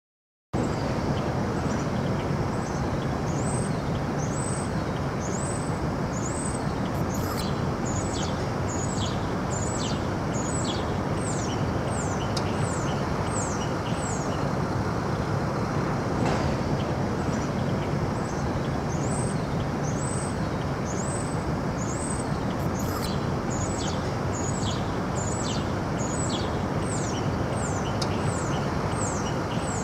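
Outdoor ambience: a steady rushing background noise with a bird singing long runs of quick, high, falling chirps, twice over.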